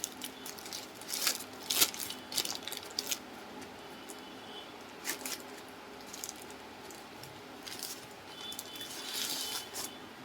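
Packaging being handled: scattered rustles, light taps and crinkles, busiest about a second in and again near the end.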